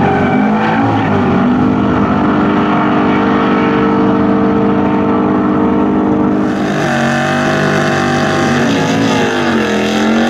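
V8 muscle car engine running loud, its pitch held steady for several seconds. About two-thirds of the way through, the revs change and the pitch dips, then climbs back up.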